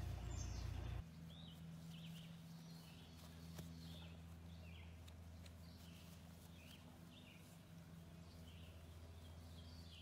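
Small birds chirping, short high chirps repeated about once a second, over a steady low hum. A louder low rumble cuts off about a second in.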